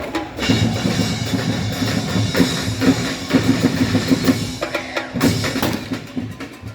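Drum-heavy music with bass drum and snare keeping a fast, steady beat; the beat drops briefly about five seconds in and then comes back.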